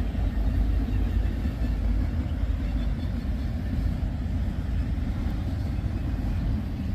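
Freight train rolling past: a steady low rumble of its cars' wheels on the rails.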